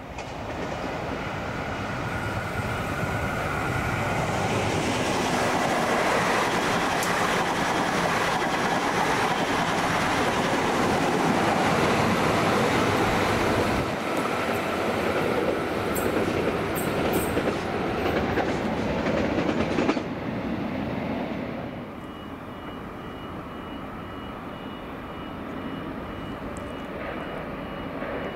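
A train running past on the line, loud and continuous for about twenty seconds, then dropping away sharply and leaving a quieter steady sound with a faint high tone.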